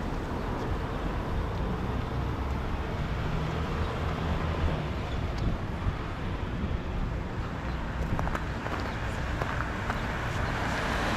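Steady outdoor city street noise with a low rumble, and a few faint clicks in the last few seconds.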